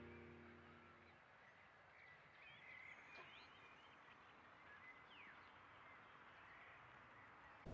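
The last held notes of background music die away about a second in. Then faint bird chirps and short whistles come scattered over a quiet background hiss.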